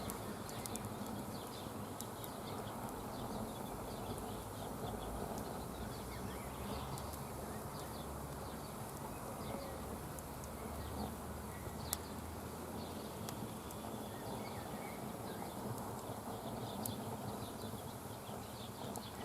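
Wood campfire burning, with irregular crackles and small pops over a steady rushing background, one sharper snap about twelve seconds in.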